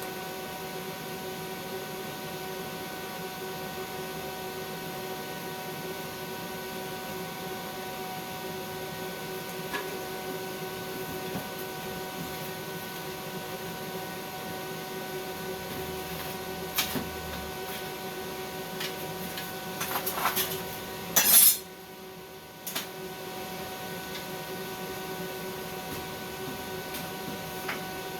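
Steady hiss and hum of a stick-welding session, with a few sharp metallic clinks about two-thirds of the way through, the loudest just before the hiss briefly cuts out and starts again.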